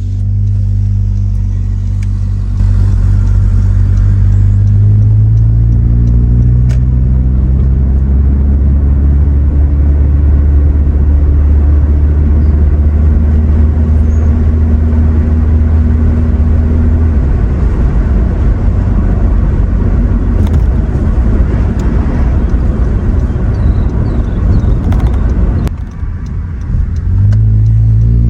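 Muffler-deleted 2017 Honda Accord LX's 2.4-litre four-cylinder, heard from inside the cabin while driving: a loud, low exhaust drone. The pitch climbs in the first few seconds as the car accelerates, then holds steady. Later it turns rougher, drops off briefly near the end, and pulls again.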